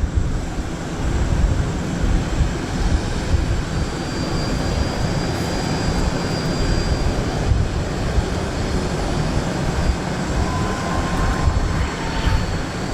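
Jet aircraft engines running: a steady, loud rumble, with a thin high whine for a few seconds midway.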